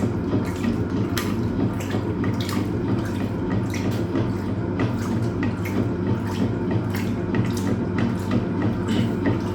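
Hoover Automatic 820 top-loading washing machine agitating its wash: water sloshing and splashing, with scattered drips, over a steady low motor hum.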